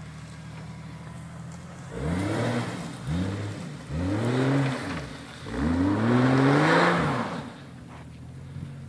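Jeep's straight-six engine idling, then revved four times in quick succession, each rev climbing in pitch and falling away; the last is the longest and loudest. A hiss rises along with each rev.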